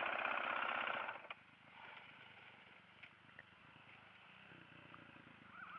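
Dirt bike engine idling, then cut off about a second in, leaving quiet outdoor background with a few faint clicks.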